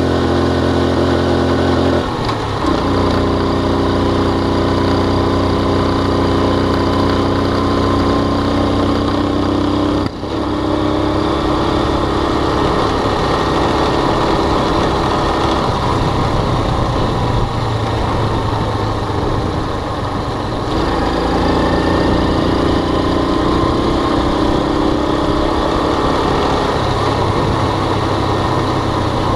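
Motorbike engine running steadily while riding. Its pitch shifts a few times as the speed changes, with a brief drop in level about ten seconds in.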